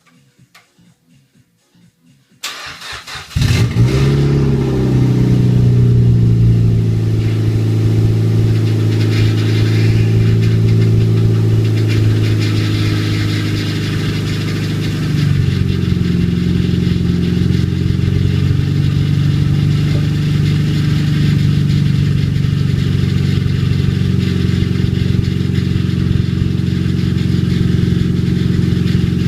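Mazda MX-5 NC's rebuilt four-cylinder engine cranking briefly on the starter, then catching about three seconds in and running loud with no exhaust fitted. It flares up high at first, then settles into a steady fast idle that steps slightly about halfway through. This is a first start after a full rebuild, with the dry power steering pump rattling.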